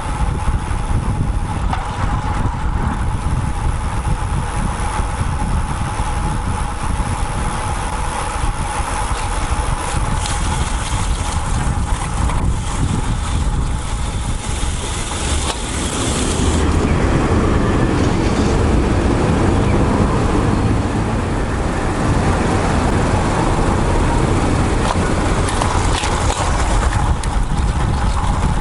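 Wind rushing over the microphone of a bike-mounted action camera during a road bike ride, mixed with motor traffic running alongside. The rushing gets louder about sixteen seconds in.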